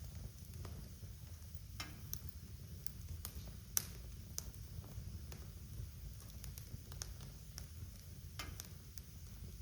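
Wood fire burning in a fireplace: a low steady rumble of the flames with scattered sharp crackles and pops, one louder pop a little under four seconds in.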